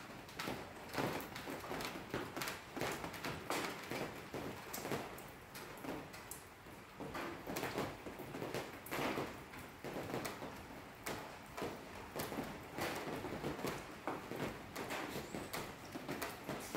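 Light rain: irregular sharp taps of drops, several a second, over a faint steady hiss.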